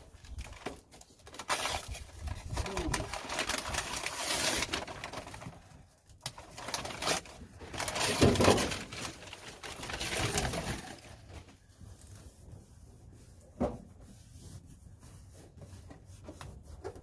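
Crinkling and rubbing of foil-backed sound deadening mat being handled and pressed down on a truck cab's sheet-metal floor, in several loud spells over the first ten seconds or so, then quieter, with one sharp click past the halfway point.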